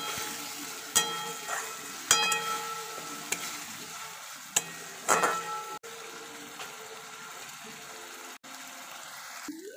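Onion-tomato masala sizzling in hot oil in a kadai, with a metal spatula scraping and knocking against the pan several times in the first half, then a steadier sizzle. The masala is being fried down until the oil separates.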